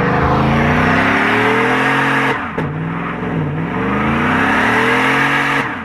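Vehicle engine accelerating hard, its pitch climbing. The pitch drops sharply about two seconds in, as at a gear change, dips once more, then climbs again before falling away near the end.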